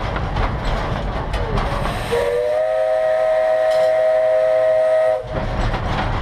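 The steam whistle of 1931 Vulcan Iron Works 0-6-0T saddletank No. 126 sounds one long blast of about three seconds. It starts about two seconds in, rises slightly in pitch as it opens, and cuts off sharply. A low rumble from the running train comes before and after it.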